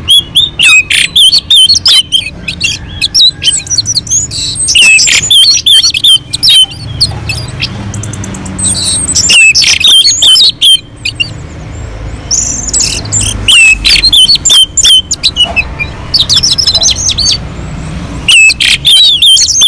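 Orange-headed thrush singing: a loud, rapid run of varied whistles and chirps, delivered in bursts with short pauses between them.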